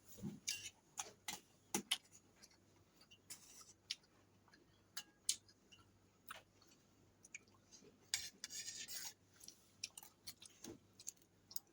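Faint eating sounds: chewing fried rice, with scattered sharp clicks of a spoon on a plate and a longer crunchy stretch about eight seconds in.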